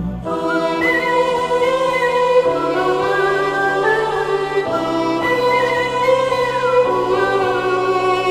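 Music from a slow, sentimental Telugu film song between sung lines: sustained held chords that change every two seconds or so, under a high melody line with vibrato, with a wordless singing or choir quality.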